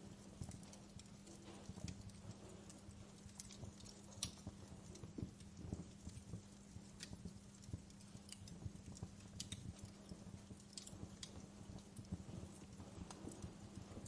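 Wood fire in a fireplace crackling: irregular sharp pops and snaps over a faint low steady hum.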